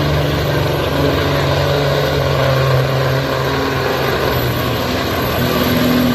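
Semi-truck diesel engine held at high revs under load while pulling the sled in a truck pull, a loud, steady drone whose pitch shifts slightly near the end.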